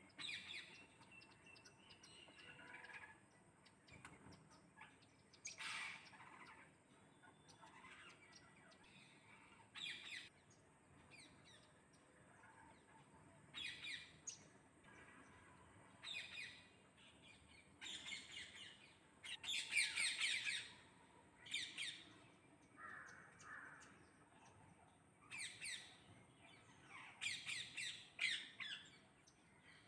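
Parrots squawking in short, harsh calls separated by pauses, with the loudest run of calls a little past the middle and another near the end.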